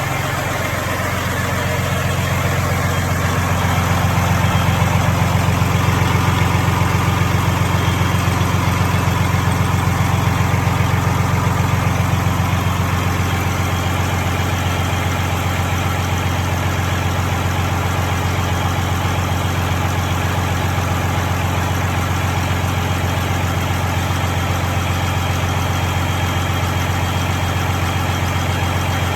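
Freshly overhauled Caterpillar C13 inline-six diesel engine idling steadily, getting a little louder a few seconds in and then holding even.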